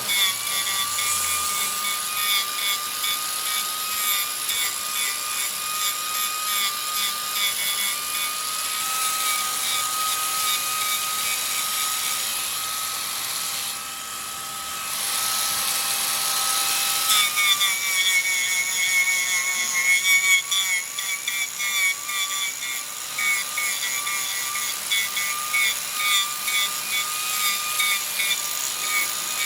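Wood lathe running with a steady high-pitched whine while a tool cuts the spinning wood with a hissing scrape. The whine drops out for a moment about halfway through, then the cutting comes back louder and more uneven.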